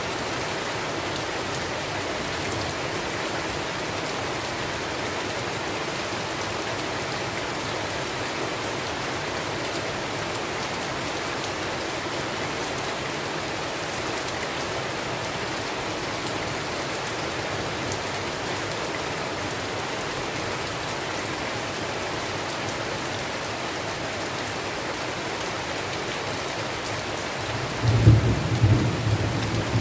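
Steady rain falling hard in a rainstorm. Near the end a loud, low rumble of thunder breaks in suddenly.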